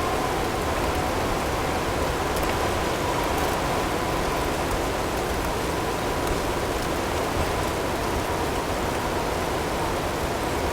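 Steady blizzard ambience: an even rush of wind with hail, and a few faint high ticks. A faint steady tone sits underneath.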